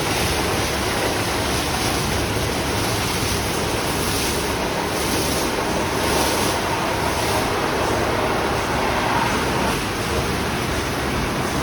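Istobal Restyle automatic car wash running mid-cycle: a steady rush of water spray and machinery, with the hiss swelling a little for a few seconds in the middle.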